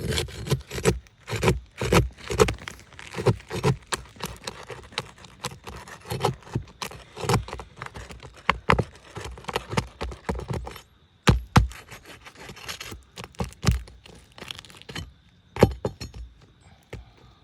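Hand tool scraping, prying and knocking on asphalt roof shingles in irregular strokes while working out a roofing nail that was driven too deep and is stuck to the shingle.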